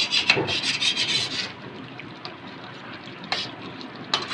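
Spatula scraping and stirring chicken and spice masala around a karahi while it fries: a run of rapid rasping strokes for about a second and a half, then quieter, with two sharp knocks near the end.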